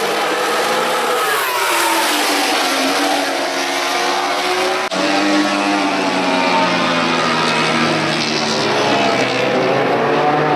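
MotoGP racing motorcycles' 1000 cc four-cylinder engines running at high revs, their pitch rising and falling with throttle, gear changes and passing bikes. There is an abrupt break about five seconds in.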